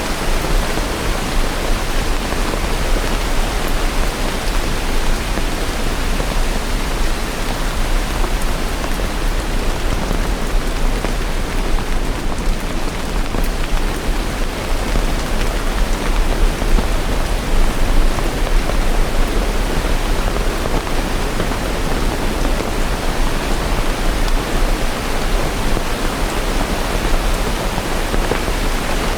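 Steady heavy rain falling, a dense even hiss with no distinct drops or thunder.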